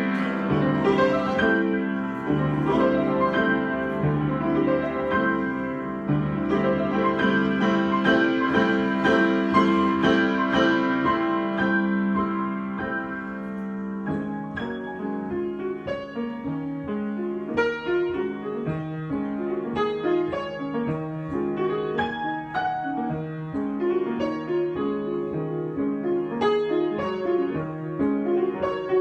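Solo piano improvisation. Held, ringing chords give way about halfway through to shorter, separately struck notes.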